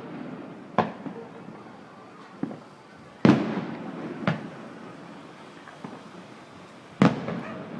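Aerial firework shells bursting, each bang trailing off into a long echoing rumble. The two loudest come a little past three seconds in and near the end, with smaller bangs between.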